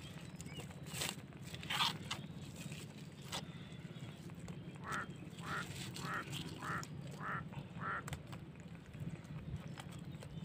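A bird calls about seven times in a row, short calls roughly twice a second, midway through. Under it are a steady low hum and scattered clicks and rustles from a live mud crab being tied up with string.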